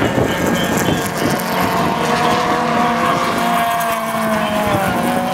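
Competition car engine running hard at high revs, its note held steady and then slowly falling in pitch in the last couple of seconds.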